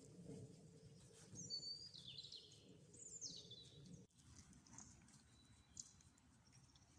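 Faint wild birds chirping in short, sliding calls over a low outdoor rumble. About four seconds in the sound drops off suddenly and goes quieter, with only a few faint chirps after.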